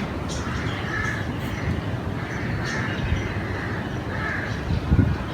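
Crows cawing, several short caws about a second apart, over a steady low background rumble, with a brief low thump near the end.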